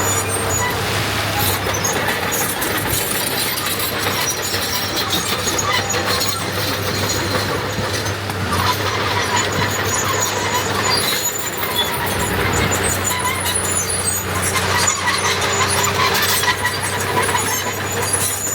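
Heavy diesel earthmoving machinery (dump trucks and a bulldozer) running steadily, with intermittent high metallic squeals.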